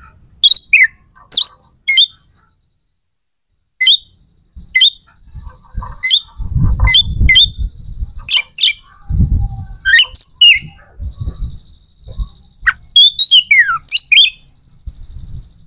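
A bird chirping: short, sharp calls that sweep steeply down in pitch, repeated irregularly, with some low rumbling noise in the middle.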